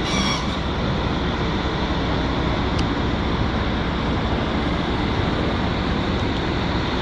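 Volvo 290 excavator's diesel engine running with a failed turbocharger, a steady noise with no let-up.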